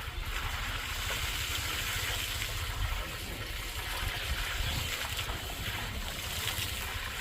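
Steady rushing of flowing water, with wind rumbling on the microphone.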